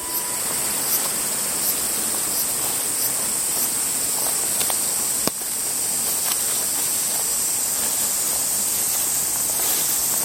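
Steady outdoor background hiss with a constant high-pitched band. Light ticks come about once a second, and there is one sharp click about five seconds in.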